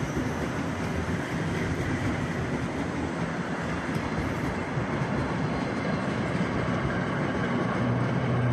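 Commuter Line electric multiple-unit train passing close by: a steady, dense rush of wheels on rail and running gear. A low steady hum comes in near the end as the last car goes past.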